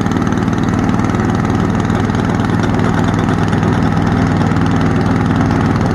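Caterpillar D9G's pony motor running steadily, turning over the main diesel, which has not yet caught after its fuel system was opened for a filter change.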